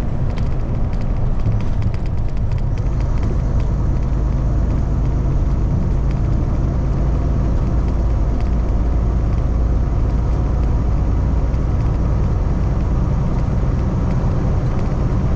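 Kenworth T680 semi truck cruising at road speed: a steady low engine drone mixed with road and tyre noise, heard from inside the cab.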